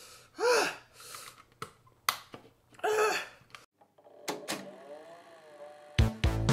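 Two short, loud wordless cries from a person's voice, each rising and then falling in pitch, with a few sharp clicks between them. A soft wavering tone follows, and loud intro music starts near the end.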